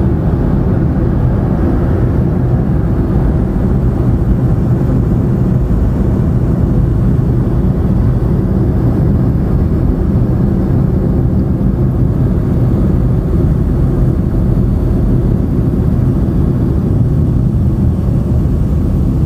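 Steady road and engine noise of a car driving, heard from inside the cabin: a low, even rumble that holds constant.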